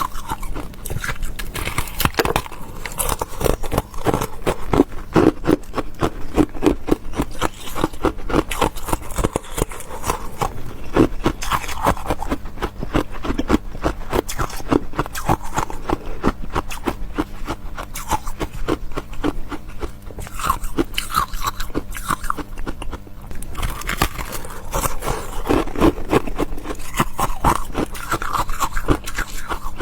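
Close-miked chewing and crunching of crisp food, a steady run of small crackles and bites without pause.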